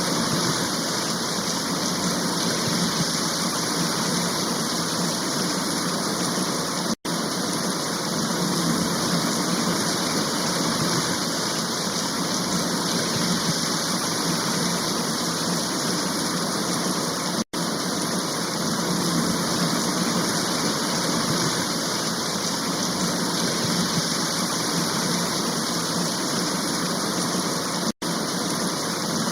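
Steady heavy rain, a dense even hiss, cut by three momentary dropouts to silence about ten seconds apart.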